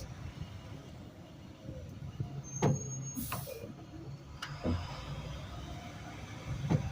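Garbage truck's engine running with a steady low rumble, heard from the back of the truck. A few sharp knocks sound across it, and a short hiss comes about three seconds in.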